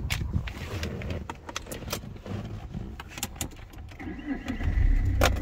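Keys clicking and jangling at the ignition, then about four seconds in a thin high tone sounds and the Saab 9-3's 1.9-litre turbodiesel cranks and starts, settling into a running diesel near the end.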